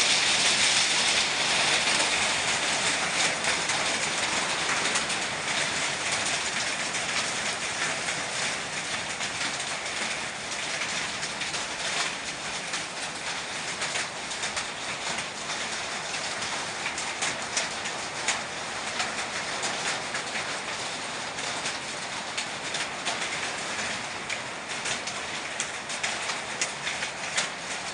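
Summer thunderstorm: a dense, steady rush of gusting wind and heavy rain, with many sharp clicks and rattles of struck debris or roofing, more frequent in the second half.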